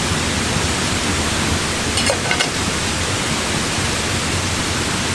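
Steady rushing of water falling at a forest waterfall, with two faint ticks about two seconds in.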